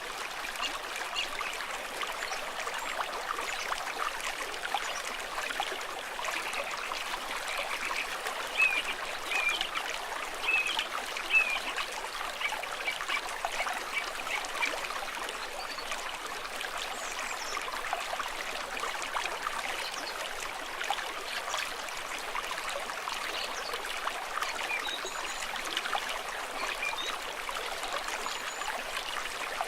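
Stream water trickling and babbling steadily, with a handful of louder, brighter plinks and splashes a little before the middle.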